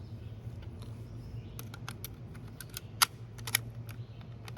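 Bolt-action .22 rifle being handled: a string of small sharp metallic clicks and clacks, the loudest about three seconds in, over a steady low hum.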